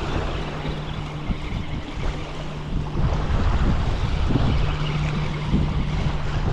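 Gusty wind buffeting the microphone, possibly with water lapping underneath. A low steady hum drops out about two and a half seconds in and returns after about four and a half seconds.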